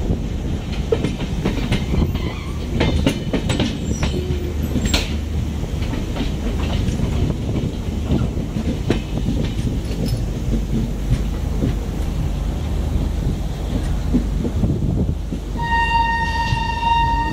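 Express train pulling out of a station, heard from on board: steady rumble of the coaches with wheels clattering and clicking over rail joints and points as it gathers speed. A steady horn sounds for the last couple of seconds.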